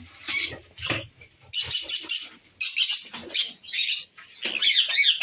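Caged aviary birds chirping: a rapid run of short, shrill, high-pitched calls, with a quick warbling trill near the end.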